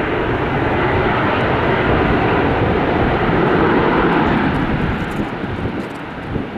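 Jet airliner's engines passing close by, a loud rushing roar that peaks about four seconds in and then starts to fade.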